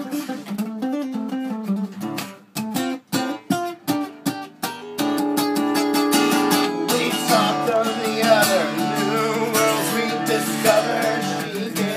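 Acoustic guitar playing an instrumental break in a folk song: separate strummed chords with short gaps at first, then a fuller, continuous accompaniment from about five seconds in, joined by a wavering higher melody line.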